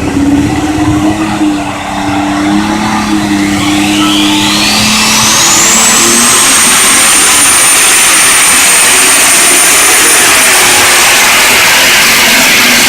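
Alcohol-burning pulling tractor's engine under full throttle during a pull. A high whine climbs steeply about four seconds in, then holds steady over the engine noise to the end.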